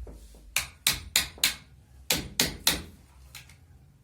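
Hammer blows, seven sharp strikes in two quick runs: four, then three, about three a second.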